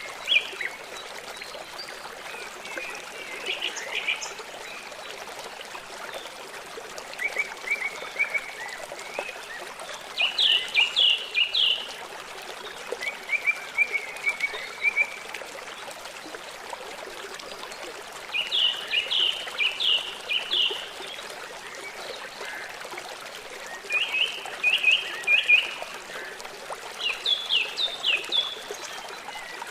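Small songbirds chirping in short, rapid bursts of high notes every few seconds, over a steady background of running water.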